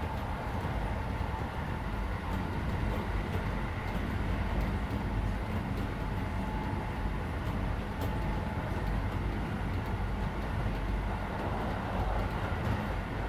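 Keisei 3400 series electric train running between stations, heard from inside the passenger car: a steady rumble of wheels and running gear with a faint steady whine.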